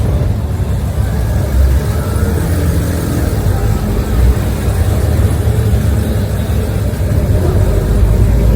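A car engine running, a steady deep rumble with small swells in level.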